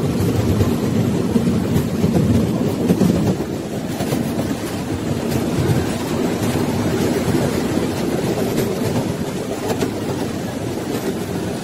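Steady rumble of a train running on its rails, heard from inside a carriage, with a few faint clicks of the wheels over the track about four and five seconds in.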